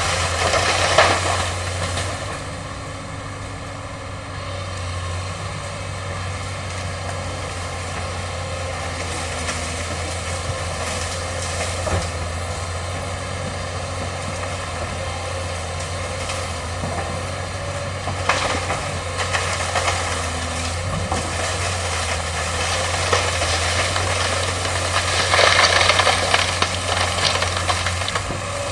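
Excavator's diesel engine running steadily under a continuous wash of mechanical noise, which gets louder about a second in, again around two thirds of the way through, and most of all near the end, as the machine works its bucket and hydraulic arm through bamboo.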